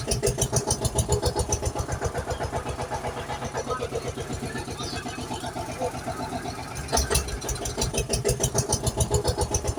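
Tractor engine chugging steadily in quick, even beats, about seven a second, getting louder for a moment about seven seconds in.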